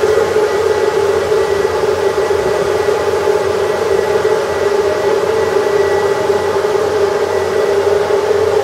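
A small electric motor running steadily with a rushing hiss of air and a constant hum.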